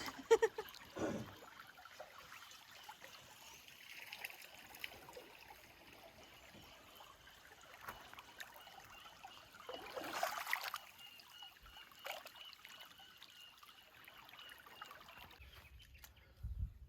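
Creek water trickling and flowing faintly, with a louder splash-like swell about ten seconds in.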